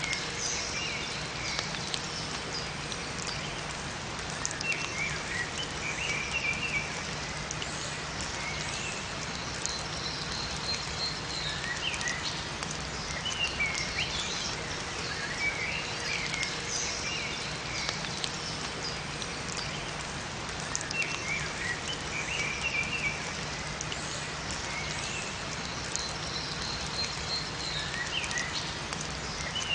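Steady rain falling in a forest, with small songbirds chirping in short clusters every few seconds.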